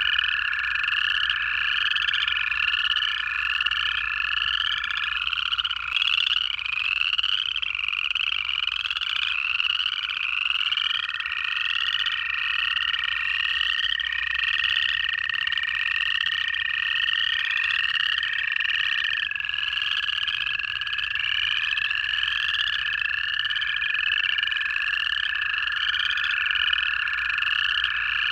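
Dense frog chorus of upland chorus frogs, giving rising trills over and over about once a second. Under them run long, steady trills from American toads, each held for several seconds.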